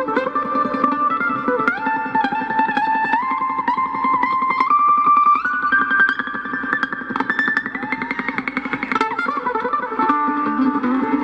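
Fast mandolin solo, the picked melody climbing higher in steps, with a run of rapid tremolo picking about two-thirds of the way through.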